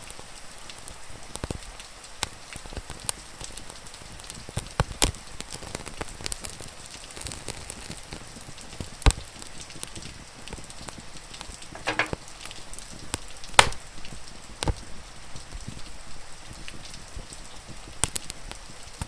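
Wood fire crackling, with scattered sharp pops and two louder cracks about nine and thirteen and a half seconds in, over a steady hiss of rain.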